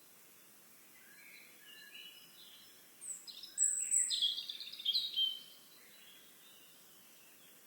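A songbird singing one song phrase: a few soft high notes, then a louder, quick run of high chirps and trills, over a faint steady hiss.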